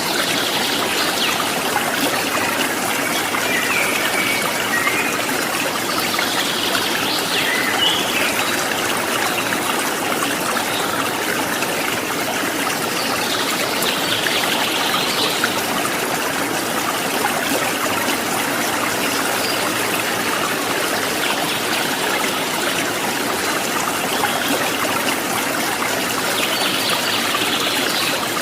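Steady trickling, babbling water of a small stream, with bird calls coming in at intervals every few seconds above it.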